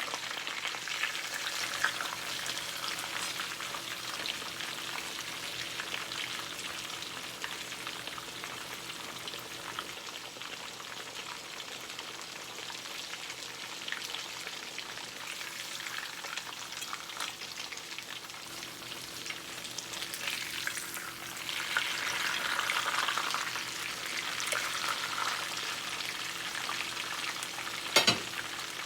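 Breaded chicken breast deep-frying in hot oil, a steady dense sizzle and crackle that swells for a few seconds about three-quarters of the way through. A single sharp knock near the end.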